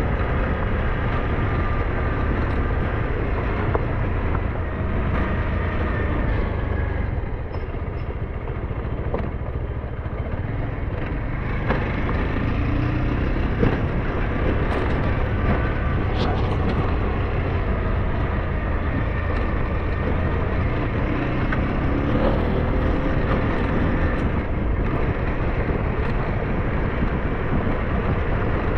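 SYM NH T 200 motorcycle engine running under way, with a steady low rumble and its pitch rising and falling a few times as the throttle and speed change.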